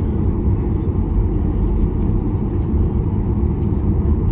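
Steady low rumble inside the cabin of a Boeing 737-800 on the ground before takeoff, its CFM56 turbofan engines running, heard through the fuselage. A few faint ticks sit over the rumble.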